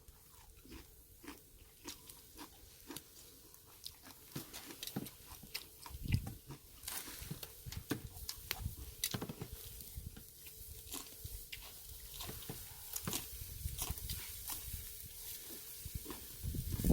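Someone chewing crunchy kimchi and cabbage close to the microphone: quiet, irregular crunches and wet mouth clicks.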